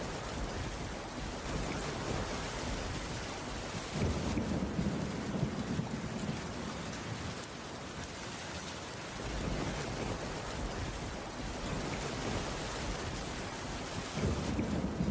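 Steady rain falling on a wooden cabin roof, an even hiss of drops, with a deeper low rumble swelling up about four seconds in and again near the end.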